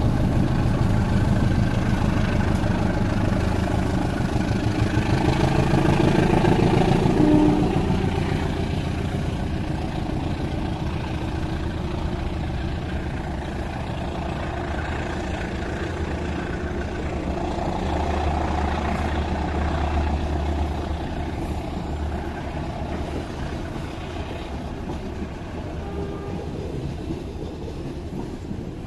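CC201 diesel locomotive's engine running hard as it hauls a passenger train away from the station and past, loudest in the first seven or eight seconds. Then the passenger coaches roll by with a steady low rumble that swells again about eighteen to twenty seconds in.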